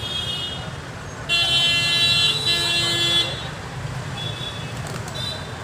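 Vehicle horn honking for about two seconds, a steady multi-tone blare, over the low rumble of passing road traffic. Shorter, fainter horn toots come near the start and near the end.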